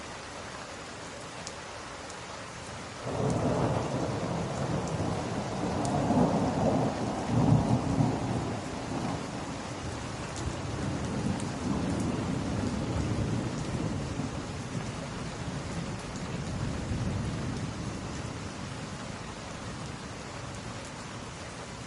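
Steady rain with a roll of thunder that breaks in suddenly about three seconds in, is loudest a few seconds later, then slowly rumbles away.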